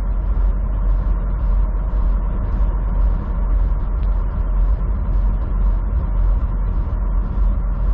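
Steady low rumble of a semi truck's diesel engine and road noise, heard from inside the cab.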